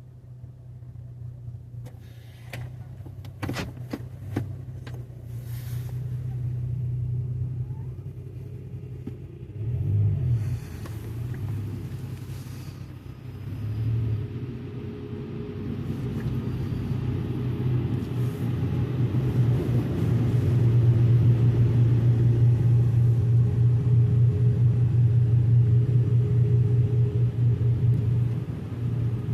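Automatic car wash running over a car: a steady low hum with a few sharp clicks at first, then a louder, steady rumbling rush that builds through the second half.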